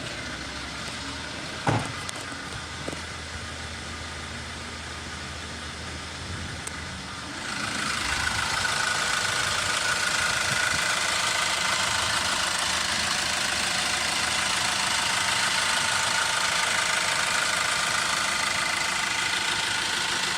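LDV G10 van engine running steadily with a low hum, a single click about two seconds in. About seven seconds in it gets clearly louder, with a hissing whirr filling the upper range, and holds that level.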